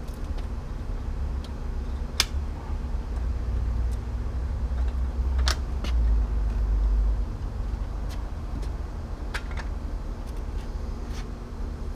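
A few scattered sharp clicks of hand tools working the cotter pin out of an outboard motor's propeller shaft, over a steady low rumble that swells about six seconds in.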